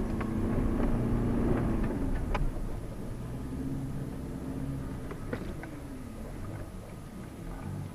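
Off-road 4x4's engine running as it drives over rough ground, heard from inside the cabin, with scattered knocks and rattles. The engine is louder for the first couple of seconds, then eases off.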